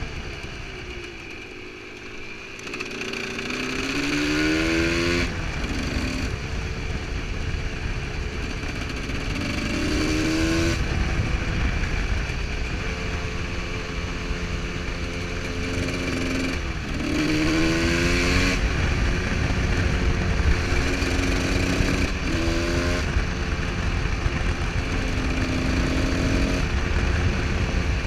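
Husqvarna SM125 supermoto's two-stroke single-cylinder engine under way, revving up in pitch and dropping sharply again about four times as the rider works the throttle and shifts gears. It runs quieter for a moment about two seconds in.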